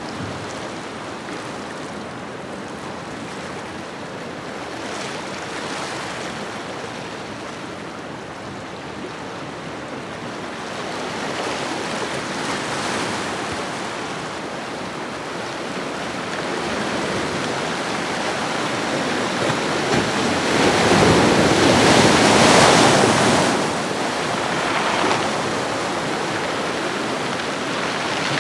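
Ocean waves washing on a shoreline, a steady rushing surf that slowly builds and breaks loudest about three-quarters of the way through before easing back.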